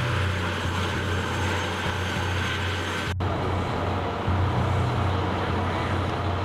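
A heavy vehicle's engine running steadily with a low hum. The sound drops out for an instant about three seconds in.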